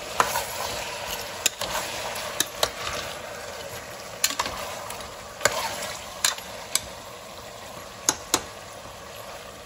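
Chicken pieces and whole spices sizzling in hot oil in a pressure cooker while a metal spatula stirs them, its edge clicking and scraping against the pot about ten times.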